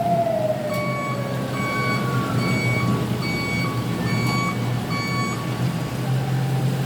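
Vehicle reversing alarm beeping steadily, about once every 0.7 s for several seconds, over steady rain and a low engine hum. At the start a siren's falling tone winds down and fades away.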